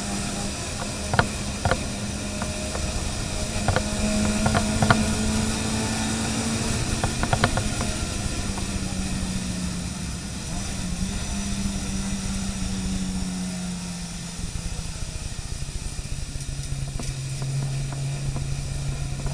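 Car engine running at a steady speed, its note dropping about fourteen seconds in, with several sharp clicks or knocks in the first half.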